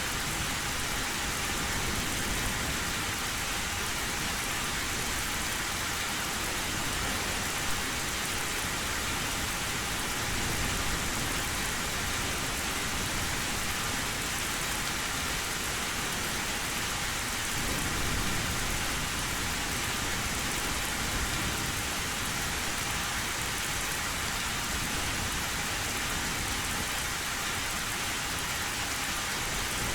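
Steady heavy rain falling on an old tin roof, with a low thunder rumble swelling up a little past two-thirds of the way in.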